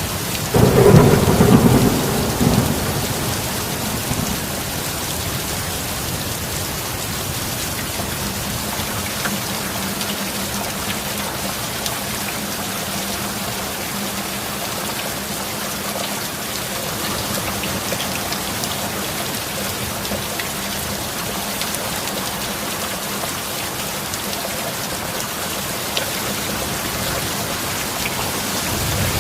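Steady heavy rain with a loud thunderclap about a second in that rumbles away over the next few seconds. Thunder begins rumbling again near the end.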